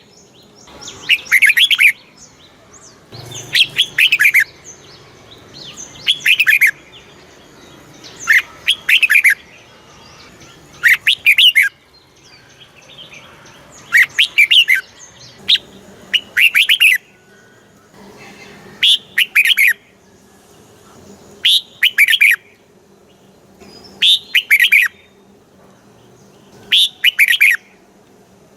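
Red-whiskered bulbul singing: short, loud, bubbling song phrases repeated about every two and a half seconds, some eleven in all.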